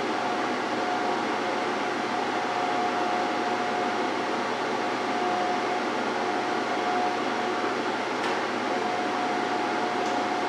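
MIG welder arc running steadily while laying a practice bead with 75% argon / 25% CO2 shielding gas: an even crackling hiss with a steady whine through it.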